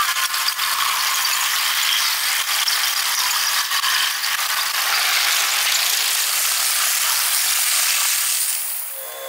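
Sped-up, time-lapse sound of a freight train passing: a fast, high-pitched rattling clatter of wheels and cars. It fades near the end as the train clears.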